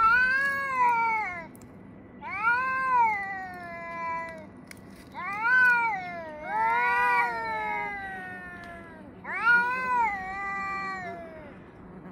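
Two cats yowling at each other: about five long, drawn-out calls, each rising and then falling in pitch, coming one after another with short gaps, two of them overlapping a little past the middle.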